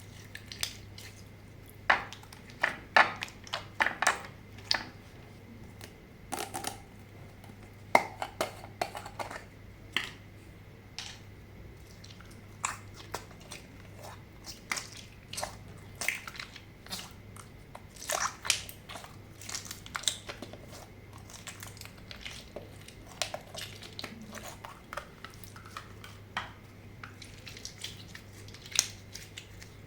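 Slime being squished, pressed and mixed by hand, making irregular wet clicks and pops that come in clusters.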